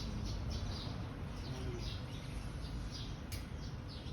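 A small bird chirping in a rapid series of short, high chirps, each dropping in pitch, about three or four a second, over a steady low rumble. A single sharp click about three seconds in.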